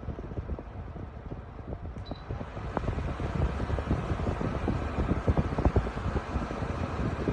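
Holmes Blizzard 7-inch three-blade table fan running, with an unsteady low rumble and irregular low thumps from its air stream. It gets louder about three seconds in.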